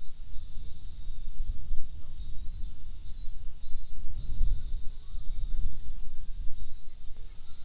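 Outdoor insect chorus: a steady high shrill hiss with a pulsed chirping call repeating in short groups. Under it is a low, uneven rumbling noise.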